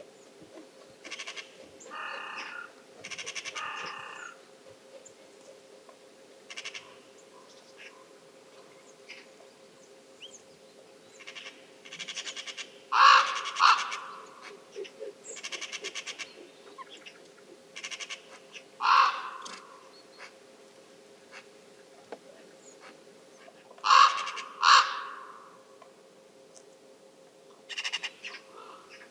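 Crow-family birds giving a series of harsh caws, some singly and some in quick pairs, a few seconds apart.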